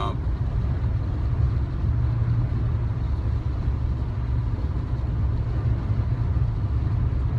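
Steady low rumble of vehicle noise, like a car's engine and road noise heard from inside.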